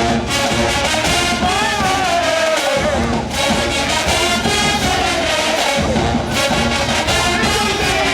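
HBCU marching band brass section playing loud, full phrases, with the melody sliding up and down in pitch.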